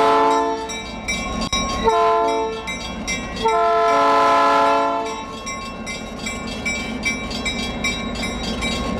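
Diesel locomotive air horn sounding three chorded blasts, long, short, long, then the train running with a steady rumble and a regular clicking of wheels over the rail joints.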